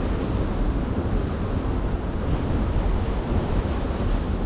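Wind buffeting the microphone: a steady rushing rumble, heaviest in the low end.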